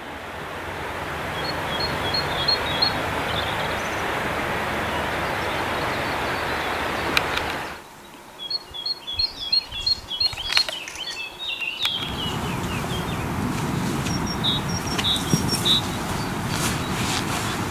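Steady rushing of a mountain waterfall, with small birds chirping over it. The rushing drops away abruptly about eight seconds in, leaving the birds clearer, and returns about four seconds later.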